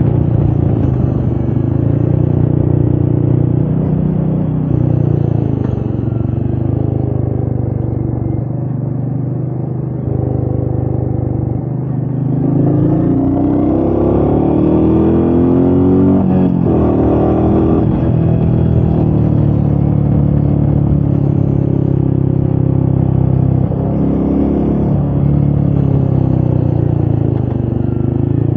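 Royal Enfield Meteor 350's single-cylinder engine running under way, with wind noise. Revs rise and fall a few times about halfway through.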